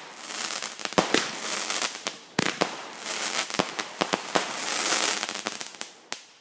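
Consumer fireworks going off: a fast run of sharp pops and crackling with a few louder bangs, dying away near the end.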